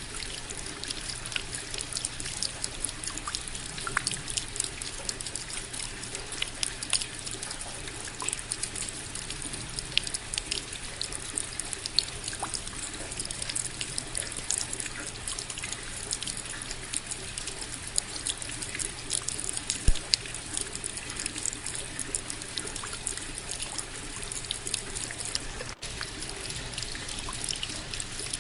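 Steady rain falling, with many separate drops heard striking close by over a constant hiss of water.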